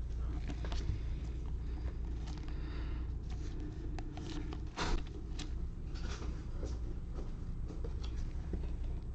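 Trading cards and their packaging being handled at a table: scattered rustling, sliding and light taps, with one louder scrape about halfway through.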